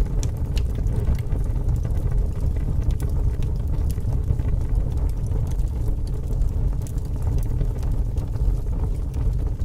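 Fire crackling: a steady low rumble of burning with scattered sharp pops and crackles throughout.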